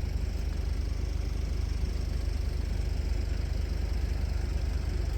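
A vehicle engine idling: a low, steady rumble.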